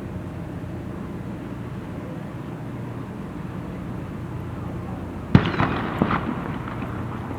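A steady low rumble in the background, then, about five seconds in, an aerial firework bursts with a sharp bang. Crackling and two smaller pops follow within the next second.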